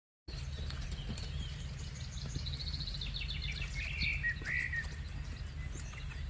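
Wild birds chirping, one giving a fast trill and then two louder chirps, over a steady low rumble.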